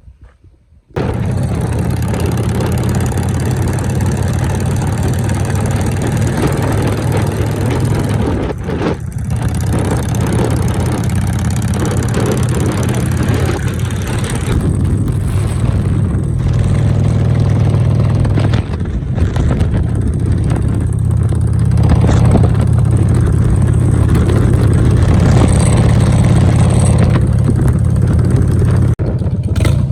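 Harley-Davidson motorcycle's V-twin engine running loudly and steadily, cutting in abruptly about a second in, with a brief dip in level twice along the way.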